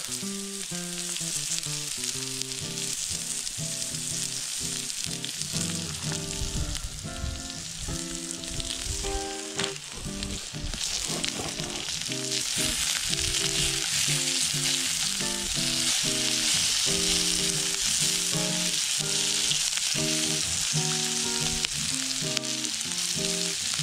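Sliced potatoes and onion sizzling in hot oil in a cast iron skillet over a small wood fire, the sizzle growing louder about halfway through. Background music with a changing melody plays underneath.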